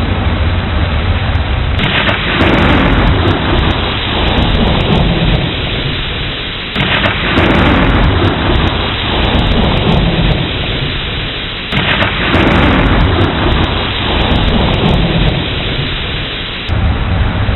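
Thunderstorm: steady heavy rain with rolls of thunder. A sudden swell comes about every five seconds, four times, and each one fades away.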